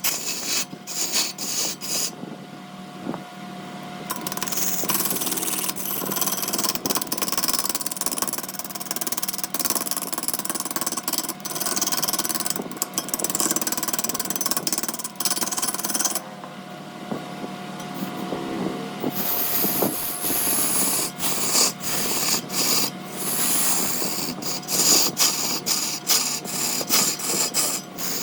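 Large wood lathe running with a steady motor hum while a turning tool scrapes and cuts the spinning wood, giving a dense, irregular scratching and clicking. The cutting stops briefly twice, about two seconds in and again past the middle, leaving the lathe's hum on its own.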